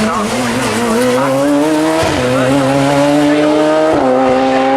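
Racing sportscar engine accelerating hard up the hill. The pitch climbs in each gear and dips briefly with quick upshifts about two and four seconds in.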